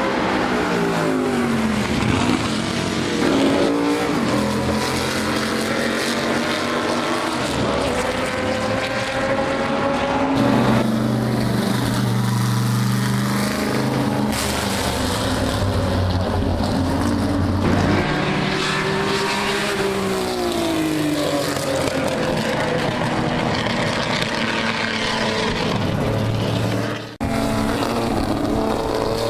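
Historic racing car engines at high revs, several cars going by one after another, their pitch falling as each passes. The sound switches abruptly to a different car a few times.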